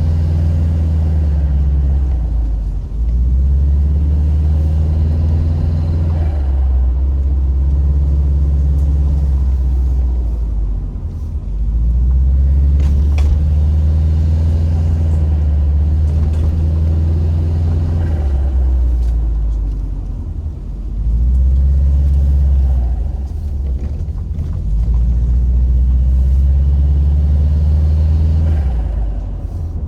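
Subaru Impreza WRX's turbocharged flat-four engine pulling steadily, interrupted every few seconds by brief throttle lifts or gear changes, with turbo flutter on lift-off.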